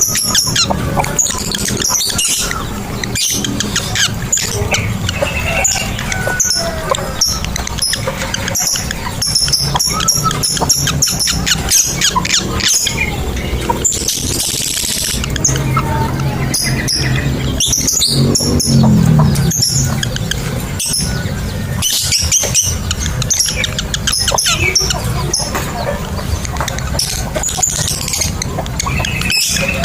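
Lovebirds chirping and chattering in rapid, high-pitched calls, with a harsher screech about fourteen seconds in.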